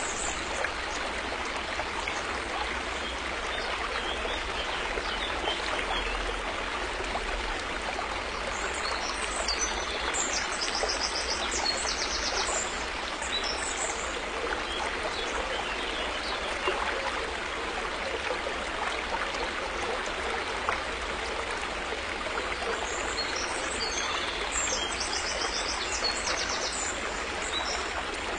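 River water flowing steadily. A bird calls in quick, high repeated notes about ten seconds in and again near the end.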